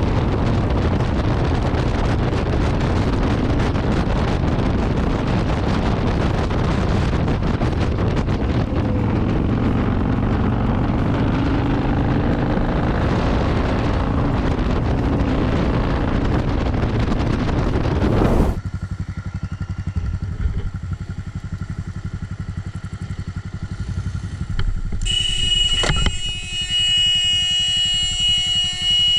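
Motorcycle riding at speed, its engine under heavy wind rush on the rider's microphone. This cuts off suddenly to a quieter motorcycle engine running, and a few seconds before the end a steady high-pitched tone sounds for about four seconds.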